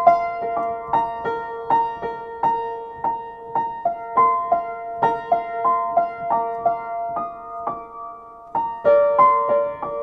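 Piano playing a slow song sketch: single notes struck about two to three times a second over a sustained lower note, with fuller chords entering near the end.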